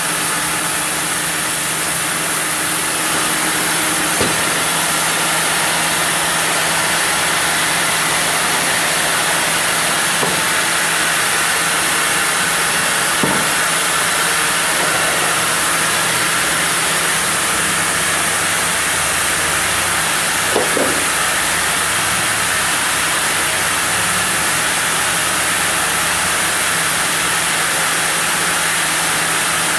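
Sawmill saw running steadily while milling a block of zelkova wood, a constant loud hissing drone, with a few faint knocks.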